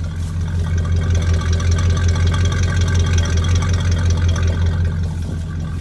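Chevy 350 V8 idling steadily after a cold start. It grows louder about a second in and eases back down near the end, with no change in speed.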